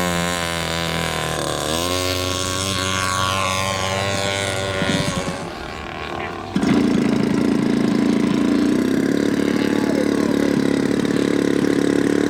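Radio-controlled model airplane engines running, their pitch rising and falling with the throttle for the first few seconds. About six and a half seconds in, the sound jumps suddenly to a louder, steady engine drone.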